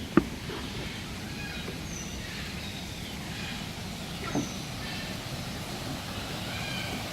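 Steady outdoor background noise with faint short bird chirps, and a sharp knock just after the start and another about four seconds in.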